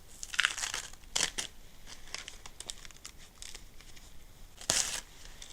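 Papery birch bark being torn off an old birch by hand: three short rips, the loudest near the end, with light crackling between them.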